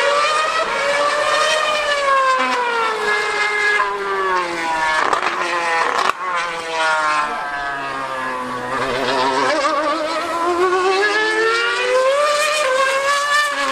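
A 2013 Formula One car's high-revving V8 screams at speed. Its pitch sags and climbs as it changes gear, with sharp breaks about five and six seconds in, then rises again toward the end.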